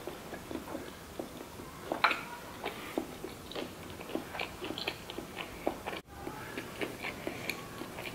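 Close-up eating sounds of someone chewing sushi rolls: wet, irregular mouth clicks and smacks, with a brief break about six seconds in.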